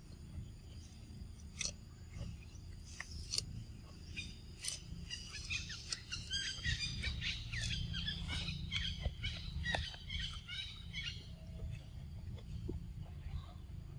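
Birds chirping, a busy run of short overlapping calls through the middle, over a steady low rumble, with a few sharp clicks before the chirping starts.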